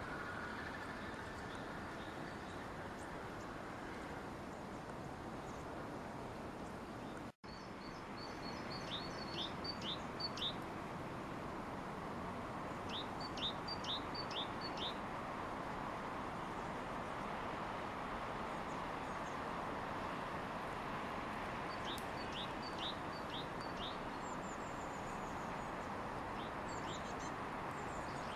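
A small songbird calling in short runs of four or five quick, high notes, repeated several times over a steady background hum. The sound cuts out completely for an instant about seven seconds in.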